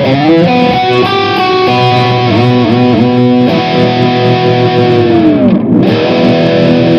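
Heavy distorted electric guitar played through a Lekato Tank G Black pedal's Mesa Boogie Dual Rectifier amp model: sustained lead notes with vibrato and bends, and a steep dive down in pitch about five and a half seconds in.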